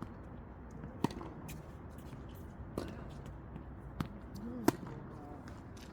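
Tennis balls being hit and bouncing during a rally drill: four sharp pops at uneven gaps, the last and loudest near the end.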